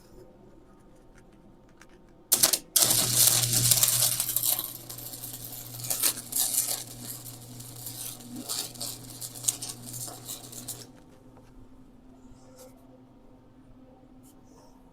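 Wire-feed welder laying a weld bead of about eight seconds: the arc crackles and hisses over a steady low hum, then stops.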